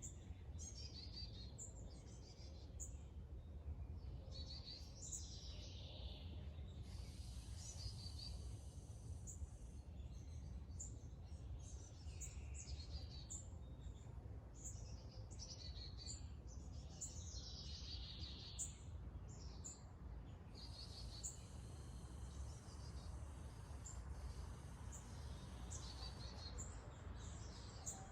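Small birds chirping and singing outdoors, many short high calls and trills overlapping, over a steady low rumble of background noise. Twice a high, even buzz runs for a few seconds.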